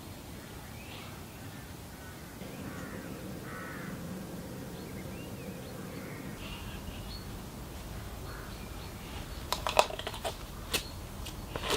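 Birds calling now and then over a low background hush, with a few sharp clicks or taps in the last two seconds.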